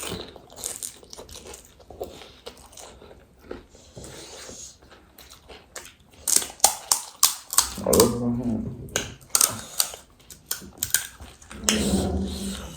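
Crisp pani puri shells crunching and being chewed close to the microphone, with a run of sharp crunches from about six seconds in. Short low vocal sounds come around eight and twelve seconds.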